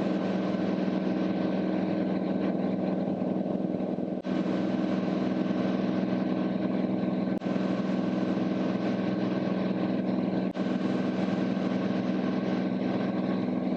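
Cirrus SR22T's turbocharged six-cylinder engine droning steadily at reduced approach power, heard inside the cockpit. The sound dips briefly three times.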